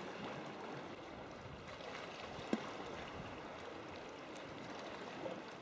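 Water lapping and sloshing against a sea kayak's hull, with a single short knock about two and a half seconds in.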